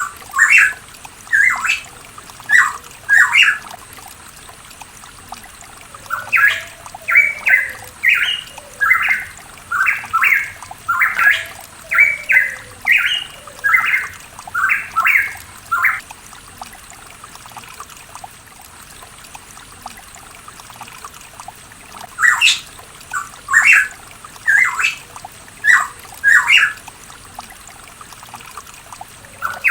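Pitohui calling: loud, short, clear notes repeated in bouts, a few near the start, a long run of over a dozen from about six to sixteen seconds in, and another run of several later on.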